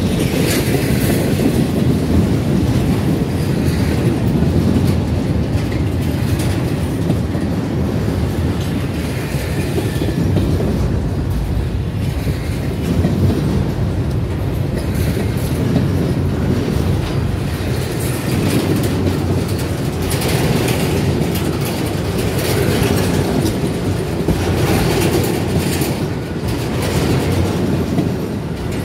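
Empty intermodal well cars of a freight train rolling past at close range: a steady low rumble of steel wheels on rail, with repeated sharp clicks as the wheels cross the rail joints.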